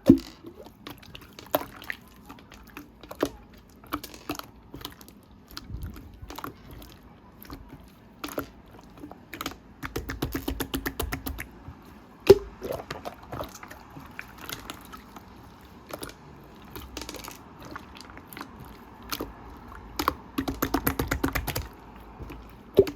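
Irregular light clicks and taps, with two stretches of rapid clicking, one about ten seconds in and one near the end.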